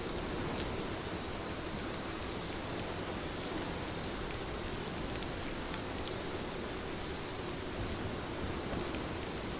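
Heavy rain falling steadily, a dense hiss with scattered sharp ticks of drops striking.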